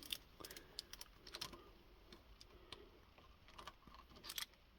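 Faint, irregular light clicks and small knocks of metal hand tools being handled, over near silence.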